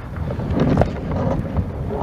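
Wind buffeting the microphone in an uneven low rumble, with a few faint knocks or clicks scattered through it.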